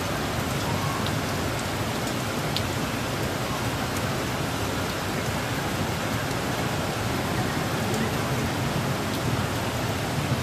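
Rain falling steadily, an even hiss with scattered faint ticks of drops striking nearby surfaces.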